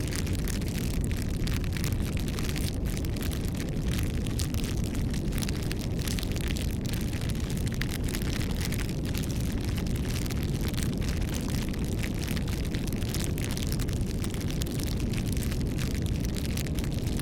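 Wood fire burning steadily with a continuous low rush of flame and many small irregular pops and crackles throughout.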